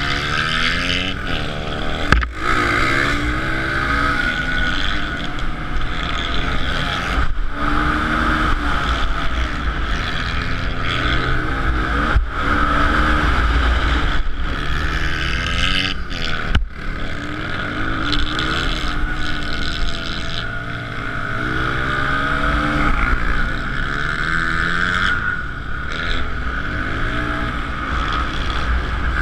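Suzuki DR-Z125L pit bike's small single-cylinder four-stroke engine under race throttle, revving up and falling back again and again as it goes through the gears and corners. A few sharp knocks come through, at about two seconds in, near the middle and about halfway through.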